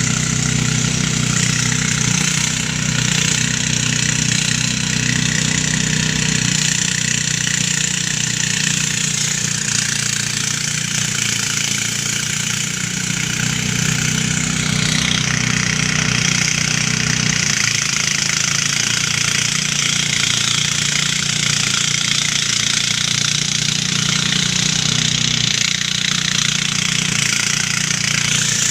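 Engine-driven rice thresher running steadily, its engine humming under a dense, hissing rattle of the threshing drum. The engine note shifts slightly about two-thirds of the way through and again near the end.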